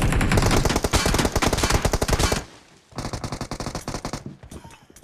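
Video game automatic gunfire: a long rapid burst, a short pause about two and a half seconds in, then a second, somewhat quieter burst.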